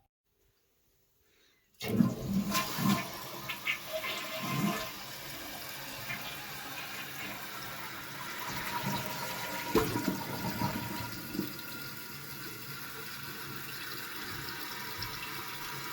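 Silence, then about two seconds in a toilet flushes, loud and uneven at first, settling into a steady rush of water refilling the tank and bowl.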